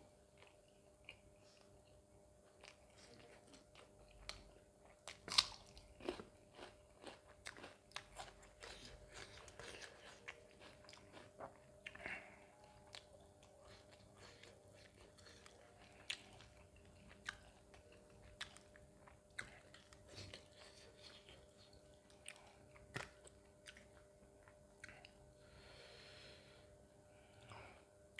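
Close-miked chewing and biting of mutton curry and roti: a scattered run of short, sharp, wet mouth clicks and smacks, the loudest about five seconds in. The whole run is faint.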